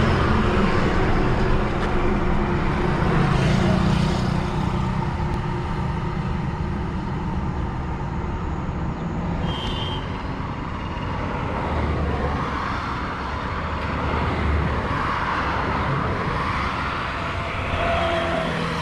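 Road traffic noise: vehicle engines running and passing, with a short high-pitched beep about ten seconds in.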